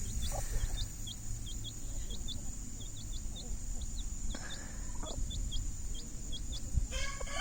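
Young chicks peeping: a steady run of short, high cheeps, about three a second. A chicken's lower call comes in just before the end.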